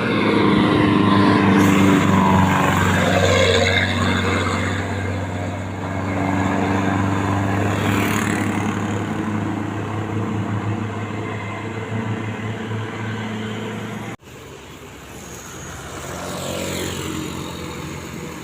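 Motor vehicle traffic with a steady engine hum and road noise. The sound cuts out abruptly about fourteen seconds in and returns quieter, then rises again as more traffic passes.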